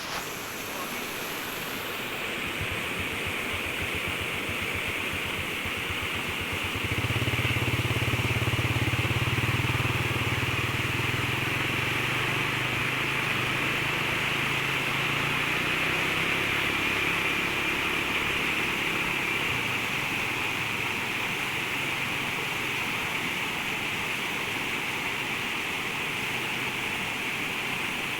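Floodwater rushing steadily across a road. An engine's low hum comes in early, is loudest about a quarter of the way through, then fades away.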